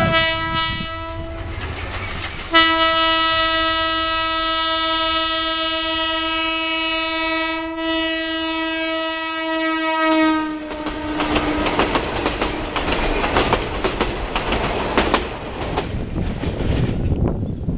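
Train horn sounding: a short blast, then a long steady blast of about eight seconds whose pitch sags as it dies away. Then the train's wheels clatter over the rail joints as it passes.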